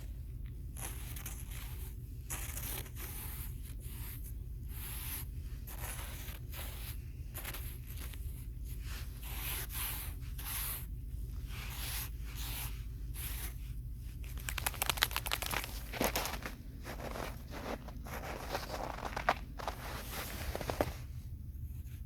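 A run of short scraping, crunching strokes, roughly one or two a second, a few louder ones past the middle, over a steady low hum.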